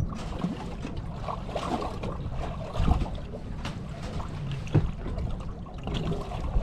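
Wind buffeting the microphone and small waves slapping against the hull of a fishing boat, with two sharp knocks about three and five seconds in.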